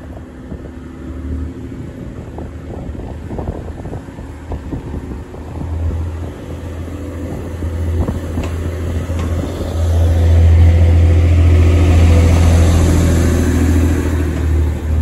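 TransPennine Express Class 185 diesel multiple unit approaching and drawing past, a deep diesel engine rumble growing louder and loudest from about ten seconds in.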